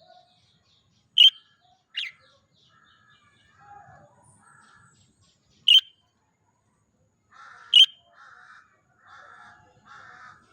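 Pet budgerigar giving four loud, short, sharp chirps, with quieter rapid chattering in between and toward the end.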